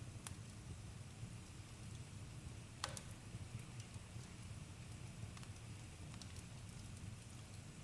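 Campfire crackling: a low steady rumble of flames with scattered sharp pops, the loudest a little under three seconds in.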